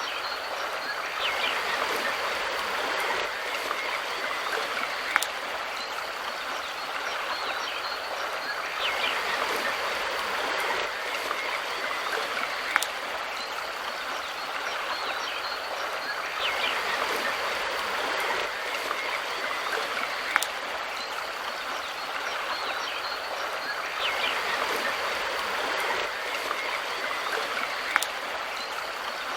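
River water rushing and burbling steadily over rocks. A sharp click comes through four times, evenly spaced about seven and a half seconds apart.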